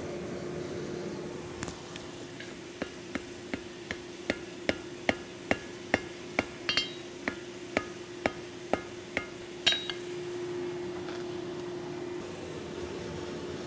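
Hand hammer blows on a hot bundle of steel cable on an anvil, forge-welding the strands together: a steady run of about two strikes a second for roughly seven seconds, some ringing off the anvil. A steady hum runs underneath.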